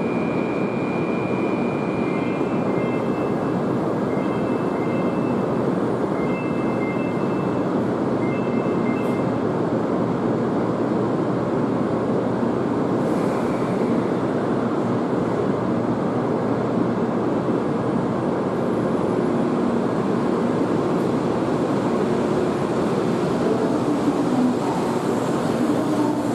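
A Shinkansen train pulling out of the platform, a steady rushing run-by noise. During the first several seconds a repeating two-note electronic beep sounds over it.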